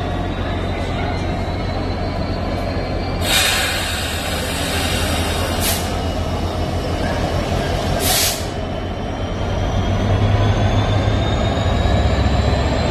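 A train running past on the line: a steady low rumble with a thin high whine that slowly rises in pitch. Three short hissing bursts come about three, six and eight seconds in, and the rumble grows louder near the end.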